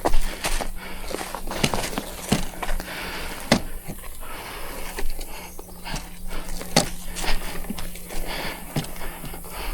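A person breathing hard, with irregular knocks, clicks and footsteps.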